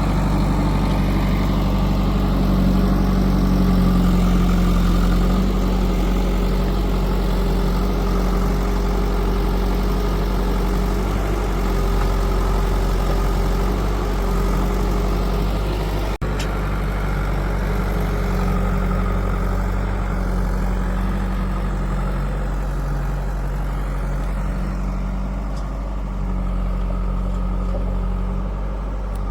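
Diesel engines of a backhoe loader and tractors running steadily at low revs, with a single sharp click about sixteen seconds in.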